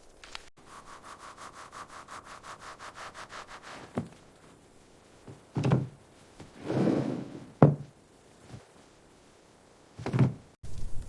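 A fast, even rasping rhythm, about ten strokes a second for roughly three seconds, followed by several heavy thunks and a brief rushing swell.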